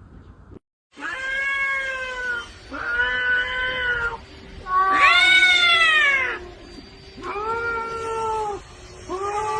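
Cats caterwauling at each other in a threat standoff: a run of five long, drawn-out, wavering yowls with short gaps between them. The loudest is about five seconds in and starts high and falls. The sound cuts out completely for a moment just before the first yowl.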